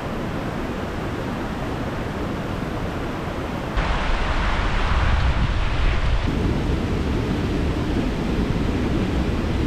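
Waterfall swollen by heavy rain, a steady rushing of water with a deep rumble beneath it. The sound jumps louder and brighter about four seconds in and shifts again about two seconds later.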